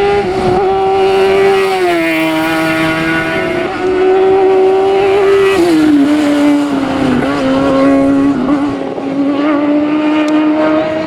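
Hillclimb race car's engine running flat out at high revs, its steady high note dropping sharply in pitch twice, about two seconds in and again about halfway through.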